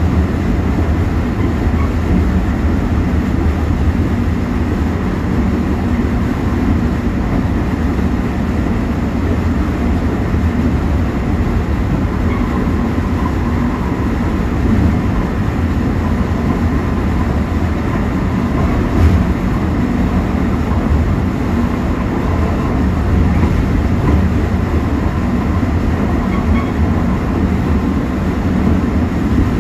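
Mugunghwa-ho passenger train running at speed, heard from inside its last carriage: a steady rumble of wheels on rails. A faint high whine comes and goes midway, and there is a single louder knock about two-thirds through.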